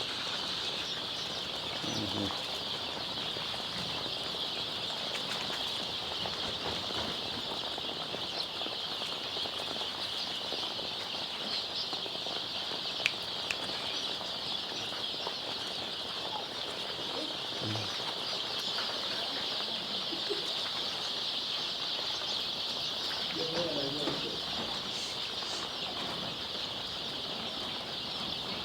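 A large flock of chicks peeping all together: a steady, dense, high-pitched chorus without a break, with a sharp click about halfway through.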